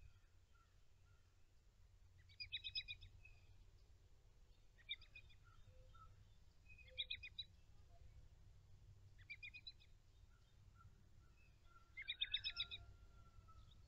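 A songbird giving a short, rapid trill five times, each about half a second long and a couple of seconds apart, over a faint low background rumble.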